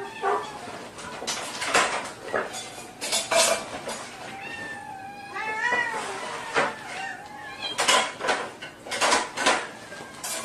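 Cat meowing, a short call at the start and a drawn-out, wavering meow about five seconds in, with sharp clattering knocks scattered throughout.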